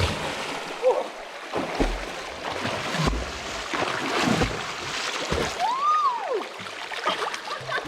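Water splashing and sloshing in a rockpool as someone wades into cold water, over the steady sound of running water, with scattered knocks and splashes. About six seconds in comes a single high squeal that rises and falls.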